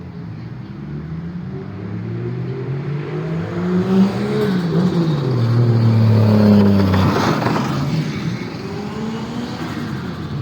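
Car engine revving as it pulls away, its pitch climbing and dropping several times, loudest about two-thirds of the way through.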